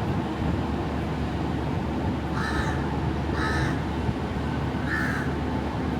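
A crow cawing three times, short harsh calls about a second apart, over a steady low rumble.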